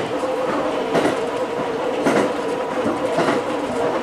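Electric train running along the track, heard from inside the front car: a steady hum with the wheels clacking over rail joints about once a second.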